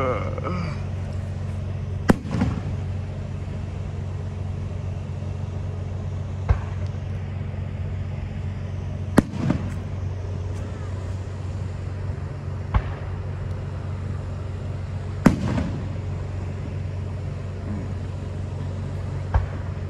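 Fireworks going off: about six separate sharp bangs a few seconds apart, the loudest about three-quarters of the way through, over a steady low hum.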